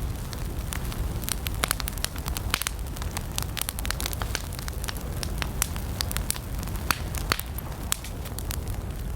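Wood campfire burning, with many sharp, irregular crackles and pops over a steady low rumble of the flames.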